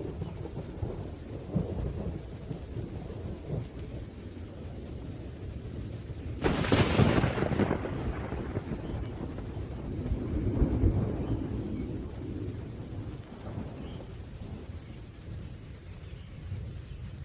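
Thunderstorm: low rolling thunder rumbling under steady rain, with a sharper, louder thunderclap about six and a half seconds in and another swell of rumble a few seconds later.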